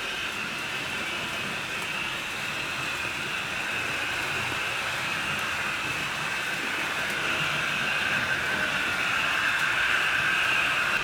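HO scale model train running on the layout: a steady whirr of its electric motor and wheels on the rails, growing a little louder near the end.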